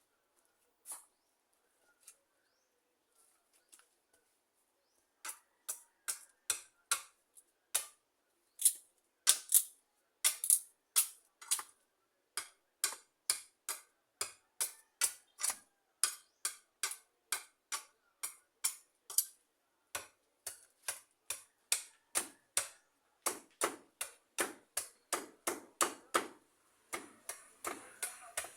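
A long, even run of short, sharp taps or knocks, about two to three a second, starting about five seconds in after a nearly quiet stretch with a few faint ticks.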